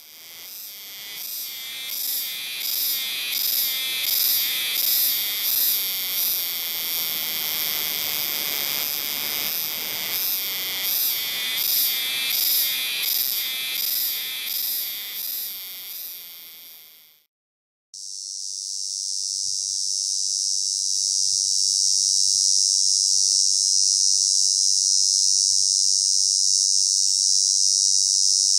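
Cicadas singing: first one species' song pulsing loudly about once every 0.7 s, which stops suddenly about 17 seconds in, then after a brief gap a different cicada's steady, unbroken high buzz.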